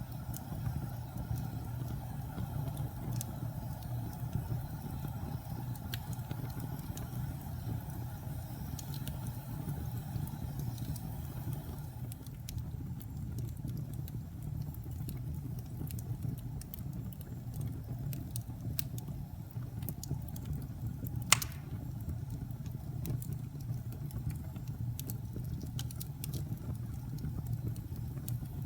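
Wood fire crackling in a fireplace: a steady low rumble of burning with scattered small crackles, and one sharp, much louder pop about three quarters of the way through.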